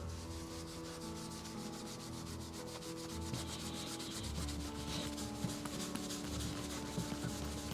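A microfibre strip with Autosol polish being rubbed steadily back and forth around an LS crankshaft's bearing journal, polishing surface rust off it.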